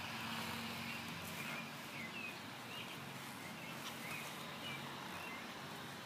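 A bird chirping outdoors: short, quick chirps repeated every half second or so, over a faint low hum.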